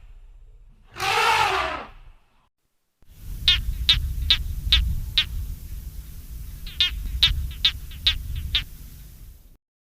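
Animal calls: one drawn-out, pitched call about a second in, then after a pause two runs of short, sharp chirps, about a dozen in all, over a low rumble.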